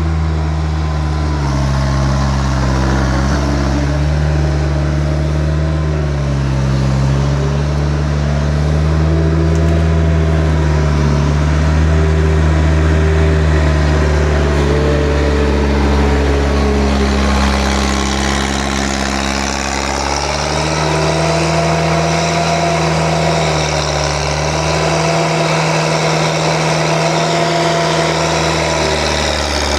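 Engine of heavy equipment running continuously, its pitch drifting up and down a little as the machine works.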